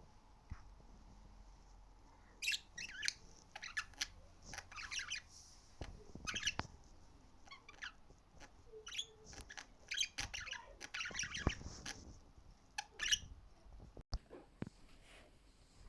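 Budgerigars chirping and chattering in quick runs of short, high chirps, starting a couple of seconds in and dying down near the end.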